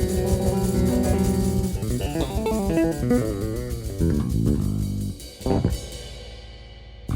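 Electric bass playing held chords, then a quick run of melody notes, with percussion underneath, closing on a final accented hit that rings out and fades: the end of a baião piece.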